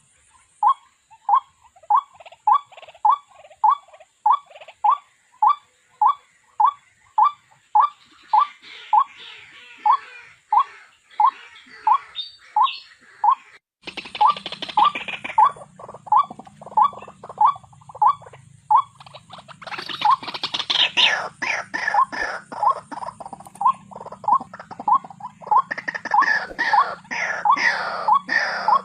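White-breasted waterhen call used as a trap lure: a short rising note repeated about twice a second, very regular. About halfway through a low hum comes in under it, and higher, busier bird calls join near the end.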